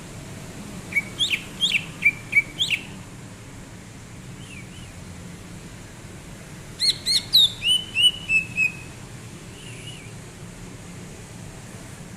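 Green leafbird (cucak ijo) singing: two bursts of quick, sharp whistled notes, the first about a second in and the second past halfway, which trails off in a short falling run of notes. Fainter single notes fall between the bursts.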